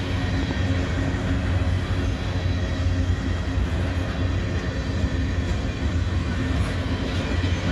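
Freight train cars rolling past close by: a steady rumble of steel wheels on rail with faint clicks. The cars are ones that the railfan takes for empty.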